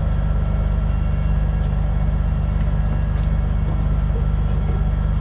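Heavy diesel truck engine running at a steady idle, with a few faint ticks over it.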